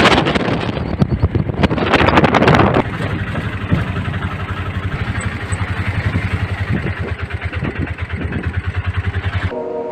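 Auto rickshaw engine running with a rapid, even putter, under heavy wind noise on the microphone for the first few seconds.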